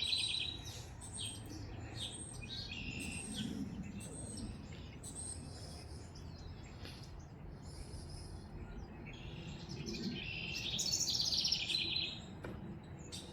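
Backyard songbirds singing: a long, rapid trilled song phrase about ten seconds in, with shorter chirps and calls from other birds throughout, over a steady low background of wind.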